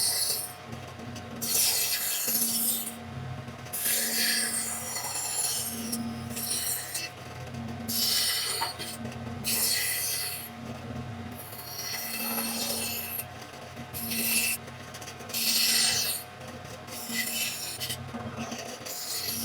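Repeated rubbing strokes across a wooden cutting board, each lasting up to about a second and a half, with short gaps between them.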